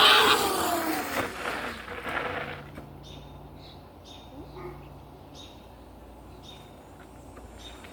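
Electric dirt bike's motor whine falling in pitch and fading away over the first two seconds or so, then birds chirping in short repeated calls.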